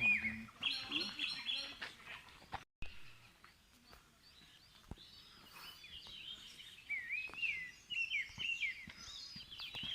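Wild songbirds singing: a quick cluster of high chirps in the first couple of seconds, then a run of short, curving whistled notes over the last few seconds.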